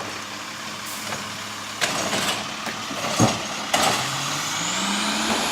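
Diesel garbage truck's engine running while its arm handles a trash can, with several sharp clanks and knocks in the middle. Near the end the engine speeds up, its note rising steadily.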